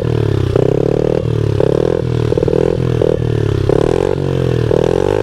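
Small single-cylinder four-stroke pit bike engine being ridden at low speed, its pitch rising and falling every second or so with changes in throttle.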